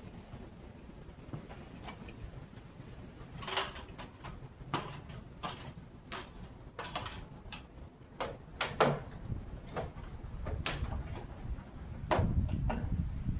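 Irregular clicks and knocks of hands and tools working on a frozen metal downspout, about a dozen sharp ones scattered through, with a louder low rumbling stretch near the end.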